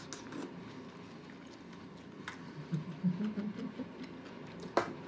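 A person chewing a mouthful of spiny lobster grilled with mayonnaise: soft mouth noises with a few small clicks, the sharpest near the end, and a short low hum about three seconds in.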